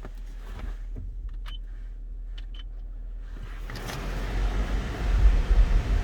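Inside the cabin of a 2004 Lexus GX 470: a low hum with a few small clicks, then from about four seconds in a louder rumble and hiss as the vehicle gets under way.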